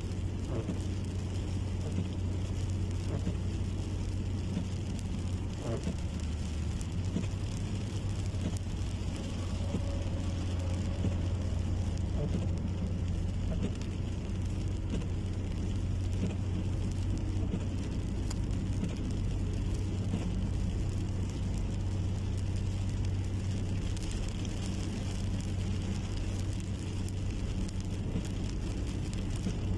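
Steady rain falling, a constant crackling patter, with a continuous low rumble underneath.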